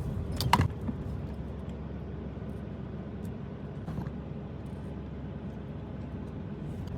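Vehicle engine running at a steady speed, a constant low drone, with a brief sharp click about half a second in.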